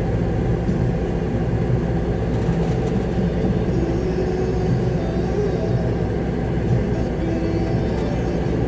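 Concrete mixer truck's diesel engine running steadily, heard from inside the cab as a constant low drone.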